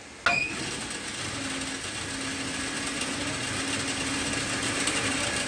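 Metal lathe: a sharp metallic clank just after the start, then the machine running with a steady mechanical noise and a low hum that slowly grows louder.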